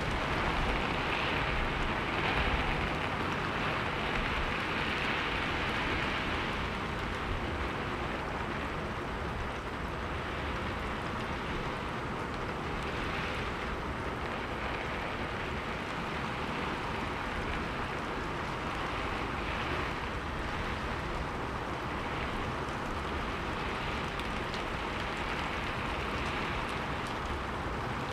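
Steady rainfall: an even hiss of rain, a little louder in the first few seconds.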